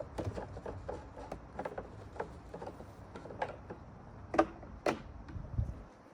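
Light clicks and knocks of parts and tools being handled on a workbench, with two louder knocks about four and a half and five seconds in.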